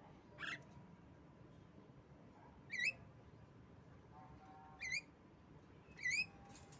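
Javan myna (jalak kebo) calling: one harsh rising note about half a second in, then three short, sharp chirps, each a quick upturned whistle, spaced a second or two apart.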